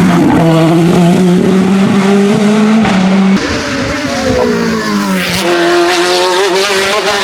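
Race car engine running hard at high revs, holding one pitch, then after an abrupt change about halfway the pitch sweeps down and back up before holding steady again.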